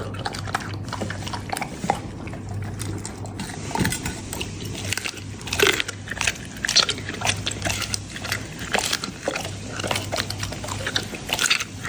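A Labrador biting and chewing its food, with irregular crunches throughout.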